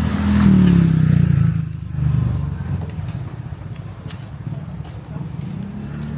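A motor vehicle passing close by on the street, its engine note dropping as it goes past and then fading. A thin, high squeal sounds for a couple of seconds about a second in.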